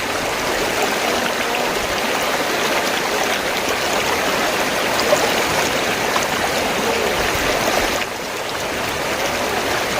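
River water flowing steadily, a continuous rushing and babbling that drops slightly in level about eight seconds in.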